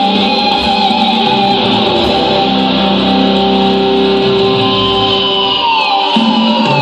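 Instrumental rock music led by an electric guitar holding long sustained notes, one of which slides down in pitch about five and a half seconds in.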